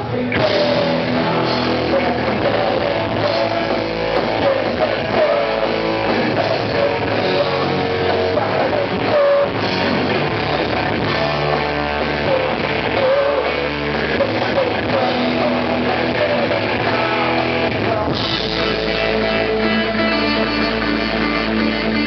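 Rock band playing with electric guitars, bass, drum kit and a sung melody line. About eighteen seconds in, the music shifts into a denser guitar-strummed section.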